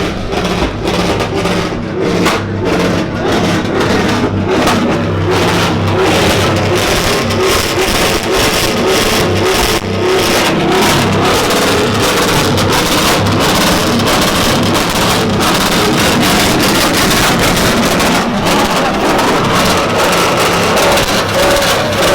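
Truck engine held on a two-step launch limiter, firing rapid pops and bangs over a steady engine note; the popping is densest in the first several seconds.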